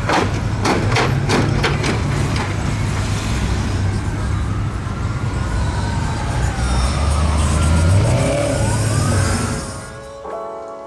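Car engines and exhaust rumbling steadily with street noise. A few sharp knocks come in the first couple of seconds, and slow gliding whistle-like tones rise and fall in the middle. The street sound cuts off near the end, where music begins.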